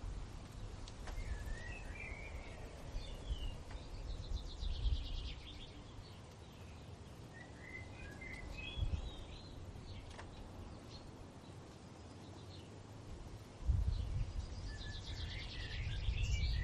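Songbirds singing in three short bouts of warbling, chirping song about six seconds apart, some with a buzzy trill. Under them a low wind rumble gusts, loudest in the last few seconds.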